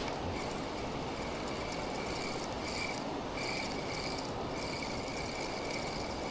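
A spinning reel being wound in, a fine steady whirr that stops briefly three times, over the steady rush of weir water.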